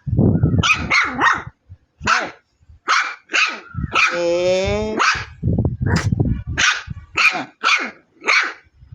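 A dog barking repeatedly, about a dozen short, sharp barks in quick succession.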